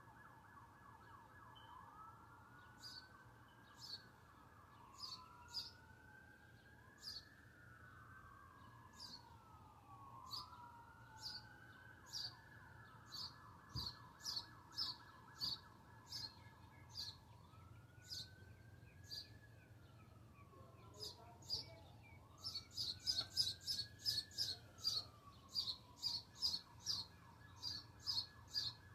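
A bird chirping over and over in short, sharp high chirps, a few seconds apart at first and then quickening into a rapid run near the end. Underneath, faint sirens wail, rising and falling slowly and overlapping.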